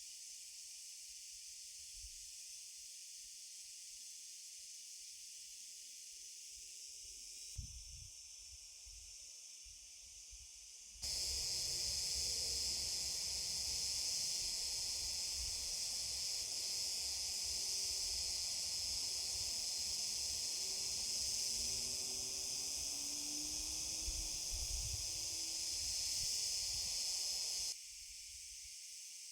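Steady high-pitched chirring of an outdoor insect chorus, crickets or cicadas, with low rumble from wind on the microphone. It turns abruptly louder about a third of the way in and drops back just as abruptly near the end.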